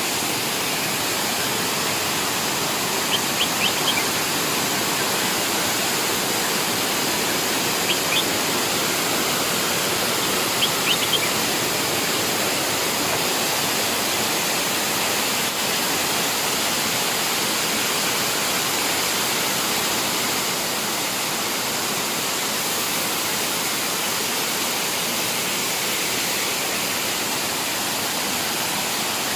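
Waterfall rushing steadily, a dense even wash of water noise. A few short high chirps break through in three quick groups, about 3, 8 and 11 seconds in.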